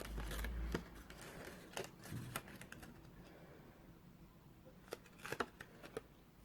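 Cardstock being handled, folded and pressed down by hand: scattered light paper clicks and rustles, with a soft low thump at the start and a small cluster of clicks about five seconds in.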